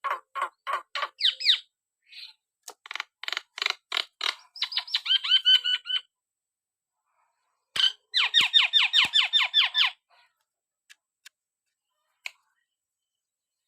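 Javan myna calling in three bouts of rapid, repeated chattering notes, the last bout ending about ten seconds in, followed by a few faint clicks.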